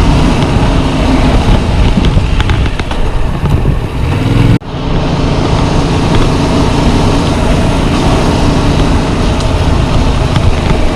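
Yamaha MT-07's 689 cc parallel-twin engine running under way, heard through heavy wind buffeting on a chest-mounted camera's microphone. The sound breaks off sharply for an instant a little over four seconds in, then carries on as before.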